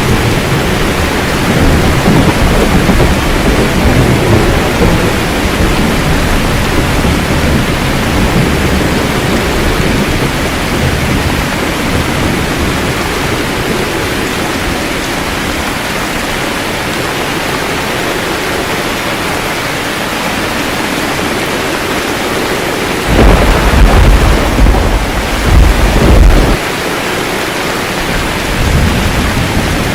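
Steady heavy rain with rolling thunder: a low rumble over the first several seconds that fades, then a louder, sharper crack and rumble of thunder about 23 seconds in that lasts some three seconds, and a softer swell near the end.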